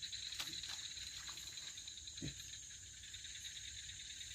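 A chorus of night insects: a steady, rapidly pulsing trill and a constant high-pitched whine. One short low sound comes about two seconds in.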